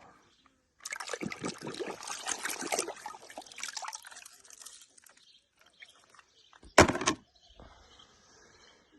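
Water spraying and splashing for about four seconds, then fading. A single short, loud burst comes near the seven-second mark.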